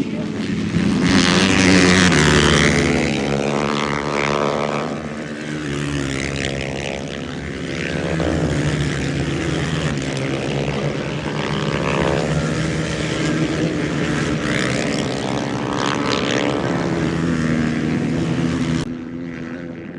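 Racing motorcycles at full throttle, their engine notes rising and falling as bikes pass close by, with louder surges about two seconds in and again near 16 seconds. The engine sound cuts off sharply about a second before the end.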